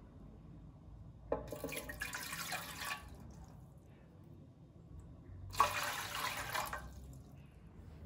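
Water running briefly twice. Each burst starts suddenly and lasts about a second and a half.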